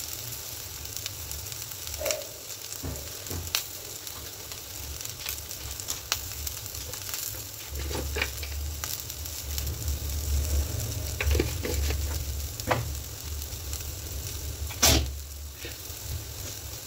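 Chopped capsicum, peanuts and garlic sizzling in hot mustard oil in a kadhai: a steady frying hiss with scattered clicks and one louder click near the end.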